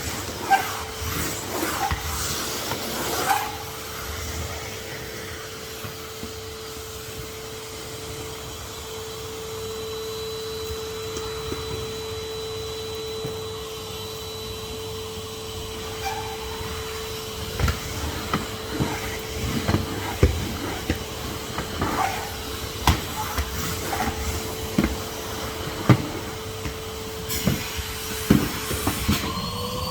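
Henry HVR200 620 W canister vacuum cleaner running with a steady motor whine. The nozzle knocks and clicks against surfaces, often in the second half, and just before the end the motor pitch rises.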